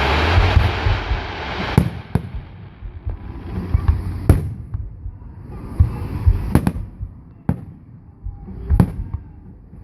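Aerial fireworks display: a crackling hiss at the start, then a string of sharp bangs every one to two seconds with low rumbling between them.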